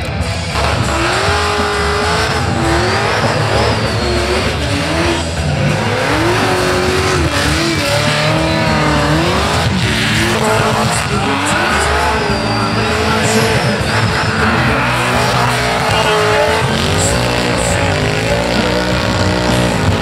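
Supercharged burnout cars' engines revving hard, the pitch rising and falling again and again, over the noise of tyres spinning and squealing on the pad.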